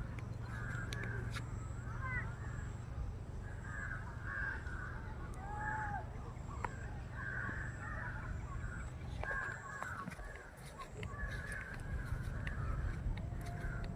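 Crows cawing over and over, several short hoarse caws in quick runs with a short pause past the middle, over a steady low hum.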